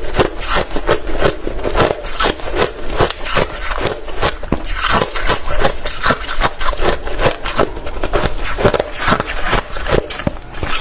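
Close-up chewing of hard, refrozen crushed ice: a continuous run of sharp crunches, several a second.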